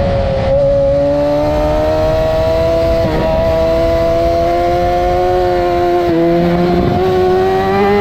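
2008 Yamaha R6 600 cc inline-four engine running hard under acceleration, heard onboard over wind rush. Its pitch climbs steadily, with two brief dips about three and six seconds in.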